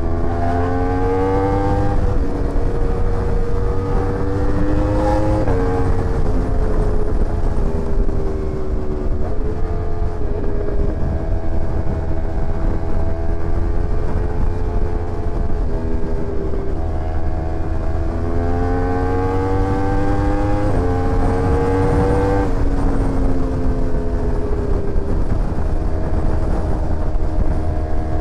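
Sport motorcycle engine running hard at speed. Its note climbs and falls several times, with sudden drops in pitch as the throttle and gears change, over a steady low rumble.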